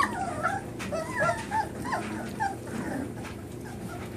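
Young puppies whimpering and whining: many short, high-pitched cries that slide up and down in pitch, thinning out after about two and a half seconds. The litter is crying with their mother away from them.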